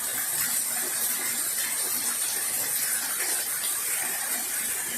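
Steady, fairly heavy rain falling, an even hiss with no breaks.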